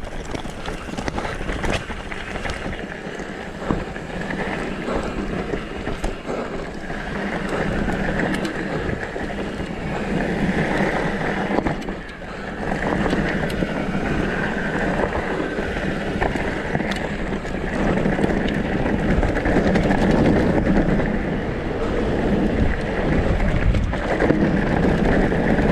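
Wind buffeting the microphone and tyres rolling over a dirt and rock trail during a downhill mountain bike run, a steady rushing noise with a few brief knocks from the bike.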